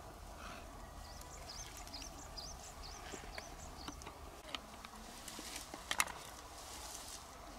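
A small bird singing a quick run of high chirping notes for about three seconds. After it come a few sharp clicks of a knife and freshwater mussel shells being handled, the loudest click coming about six seconds in.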